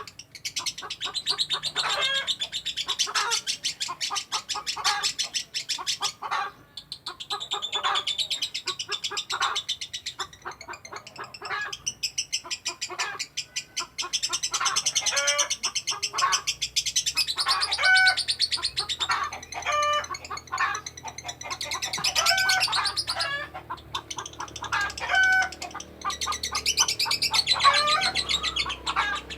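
Lovebird singing its long 'ngekek' chatter: a very fast stream of high, rattling chirps in long unbroken runs with only a few short pauses. Some clearer whistled notes are mixed in.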